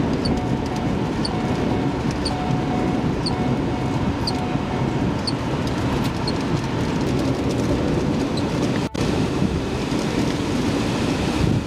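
Strong wind and deep rumble around a tornado, a steady dense roar on the microphone. A faint short high chirp repeats about once a second through most of it, and the sound drops out for an instant near the end.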